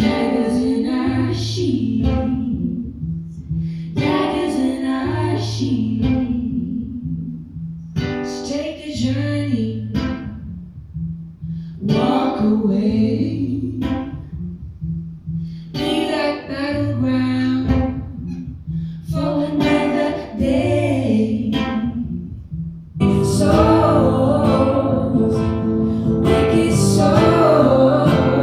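Live acoustic music: a voice singing phrases of a few seconds each over plucked guitar and a repeating low bass line. About two-thirds of the way through, the music swells fuller and louder as more parts come in.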